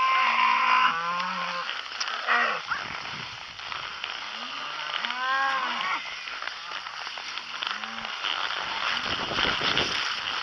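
Cattle mooing several times, calls overlapping, with one ending about a second in and others coming around two and five seconds in.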